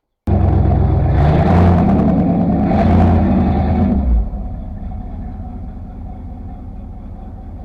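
A car engine running, revved hard twice in the first few seconds, then settling to a quieter, steady run.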